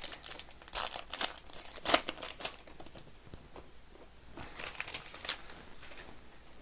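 Trading card pack wrappers being torn open and crinkled by hand, in two bursts of sharp crackling: one in the first couple of seconds and another about four and a half seconds in.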